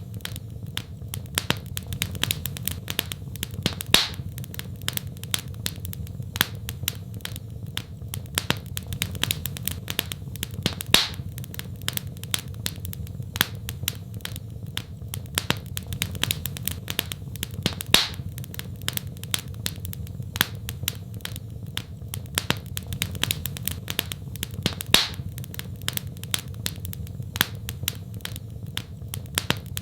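Fireplace wood fire crackling: a dense run of small snaps and pops over a steady low rumble, with a louder pop about every seven seconds.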